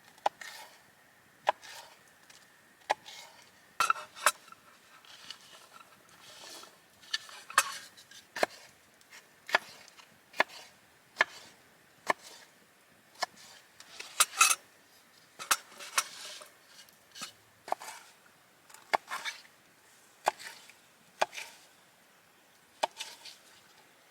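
A knife cutting vegetables on a wooden cutting board: sharp, short knocks of the blade on the board, roughly one a second, some in quick pairs.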